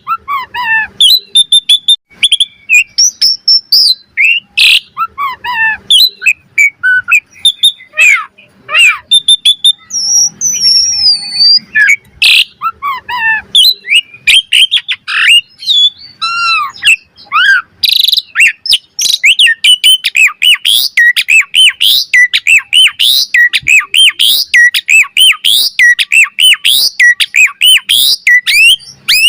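Asian pied starling (jalak suren) singing without pause: a fast, varied stream of whistles, chirps and harsh notes. In the last third it breaks into a quick run of repeated up-and-down notes.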